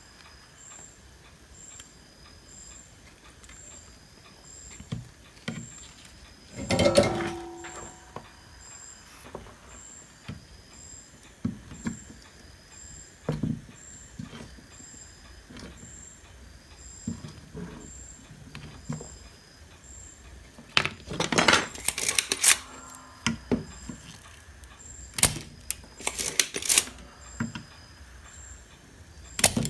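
Workbench handling sounds while desoldering parts from a power-supply circuit board: scattered clicks and clatter of tools, louder in bunches about a third of the way in and again near the end. A faint high tick repeats about once a second throughout.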